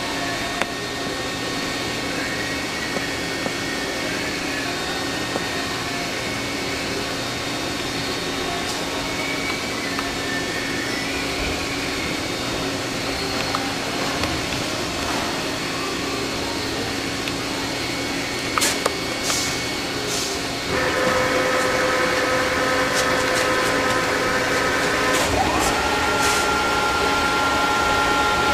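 Rottler F90Y CNC machining center running with a steady hum and whine, a few sharp clicks past the middle. About three-quarters through it gets louder with new steady tones, and near the end a tone glides up and holds, like the spindle speeding up.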